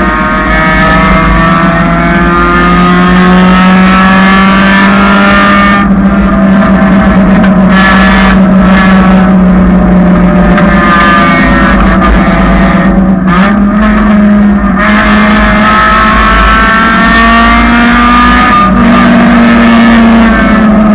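1999 Honda Civic's four-cylinder engine running hard on a race track, loud, its pitch climbing slowly under acceleration, then dropping sharply about two-thirds of the way through before climbing again.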